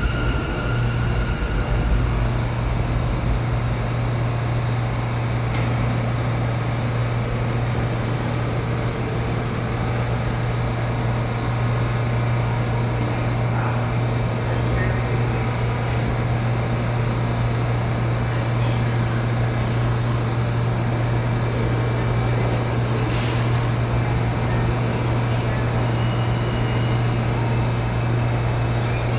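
New York City subway station platform ambience: a steady low hum over a wash of noise, with a sharp click about five seconds in and another about three-quarters of the way through.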